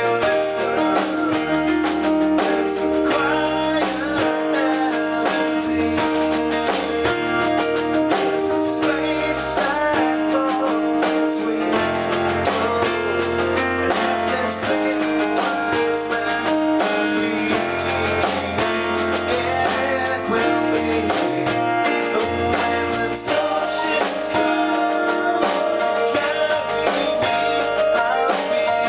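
A rock band playing a song: guitar, a moving bass line, and drums with cymbals, over sustained keyboard or guitar notes.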